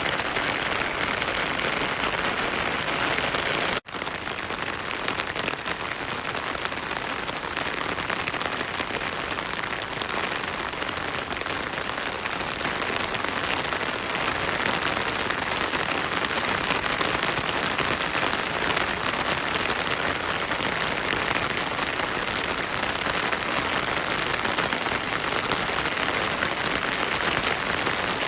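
Heavy rain falling steadily. The sound cuts out for an instant a little under four seconds in, then carries on.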